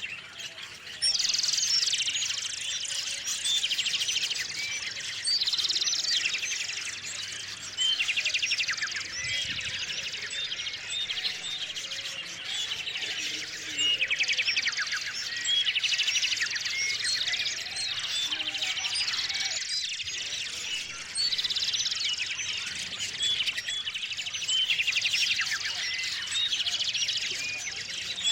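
Small songbirds singing and chirping. A loud song phrase with a fast trill repeats every few seconds over scattered short chirps.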